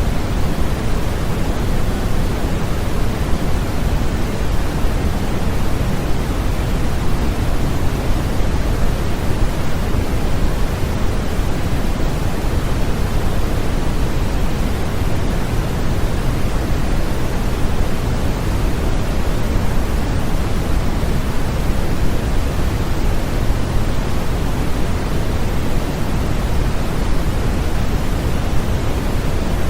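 Steady, unbroken noise of the kind played as a baby sleep aid, fuller in the low end and fading toward the highs, with no changes or events.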